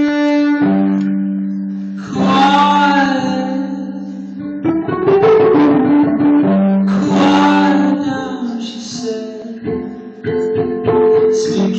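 Live instrumental music with plucked string notes over two held low notes, melodic phrases coming in every few seconds; no words are sung.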